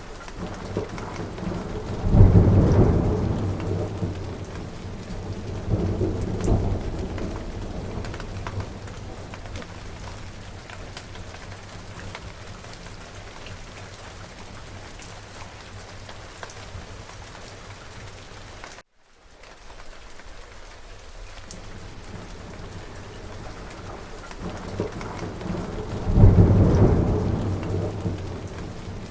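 Steady heavy rain falling, with thunder rolling through it: a loud clap about two seconds in that rumbles away over a few seconds, a smaller rumble shortly after, and another loud clap and long rumble near the end. The sound drops out for a split second about two-thirds of the way through.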